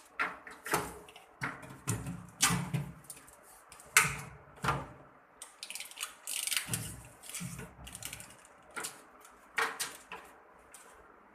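Irregular knocks, clicks and rattles of a new refrigerator's parts being handled and fitted, about a dozen sharp strikes with rustling between them.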